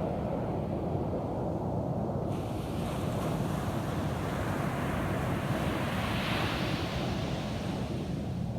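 Ocean surf breaking and washing up a beach, with a steady low wind rumble on the microphone. A brighter hiss of surf comes in suddenly about two seconds in and swells about six seconds in.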